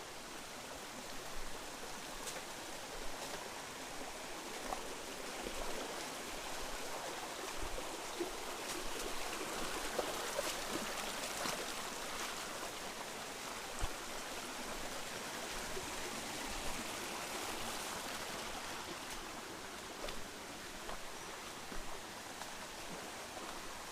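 Mountain stream rushing steadily over rocks, with a few short knocks and ticks through it.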